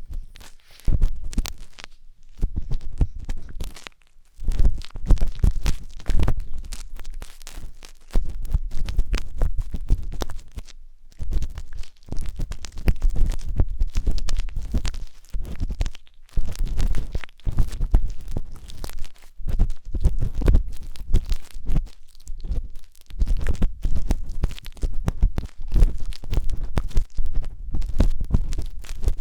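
Wooden tanghulu skewer scraping and rubbing inside a 3Dio binaural microphone's silicone ear, heard as close, dense, irregular scratching with a deep muffled rumble. It comes in runs of strokes with a few short pauses.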